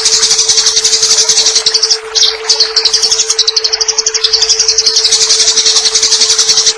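Eurasian tree sparrow's rapid, high-pitched fighting chatter, run on without pause except a brief break about two seconds in, over a steady low hum.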